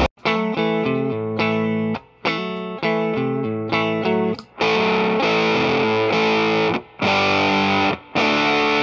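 Electric guitar played through an Earthquaker Devices Sound Shank germanium fuzz pedal, giving a distorted, fuzzy tone. It plays a riff of quick single notes and held notes, with the sound cut off short several times between phrases.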